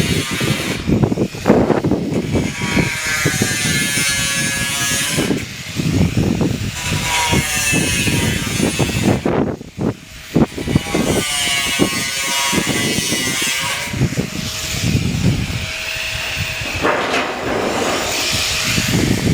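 Power tool cutting steel roofing sheet, running loud and steady, with short breaks in the cut about five seconds in and again near ten seconds.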